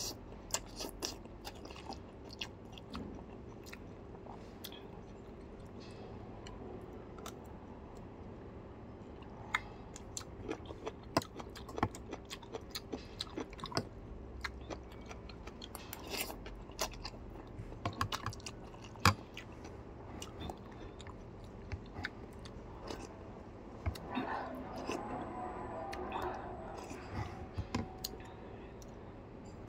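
Close-miked chewing and mouth noises of a person eating noodles: irregular wet smacks and clicks throughout, with a noodle slurp at the very start.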